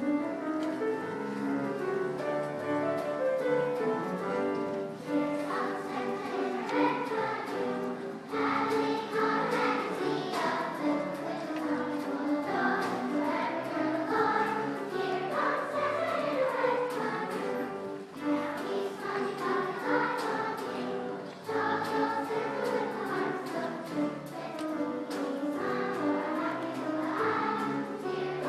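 A children's girls' choir singing a Christmas song in unison, coming in about five seconds in after a short instrumental opening.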